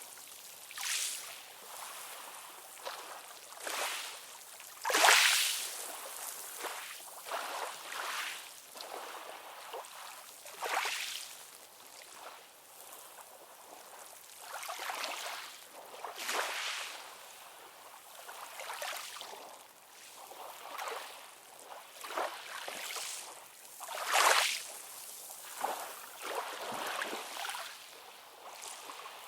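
Ocean waves splashing and washing in irregular surges, with little deep rumble; the loudest splashes come about five seconds in and again near twenty-four seconds.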